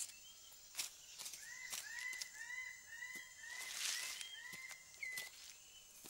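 A bird calling a quick series of short arched notes, about ten in all, with scattered sharp ticks and a brief rustle about four seconds in.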